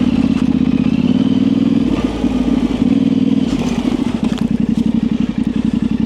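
Yamaha Tenere 700's parallel-twin engine running steadily at low revs, its even firing pulses more distinct in the second half, with a few light clicks.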